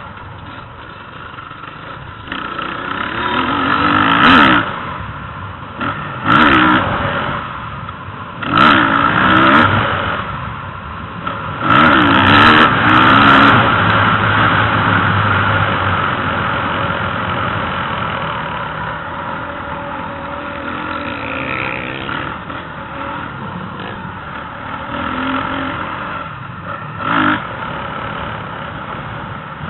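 Motocross motorcycle engines revving hard over a steady engine background, with several loud surges of rising and falling engine pitch, the biggest a few seconds in, around twelve seconds and again near the end.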